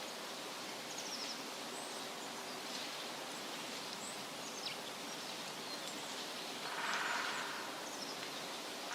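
Steady rustling of wind through leaves, with brief high bird chirps scattered throughout and a louder swell of rustling about seven seconds in.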